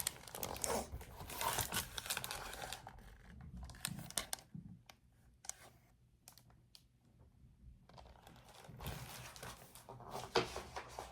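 Paper rustling as the pages of a picture book are handled and turned, in two spells near the start and near the end, with faint clicks between.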